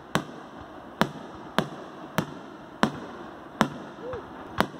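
Fireworks going off: a run of sharp bangs, seven in about five seconds, roughly one every two-thirds of a second.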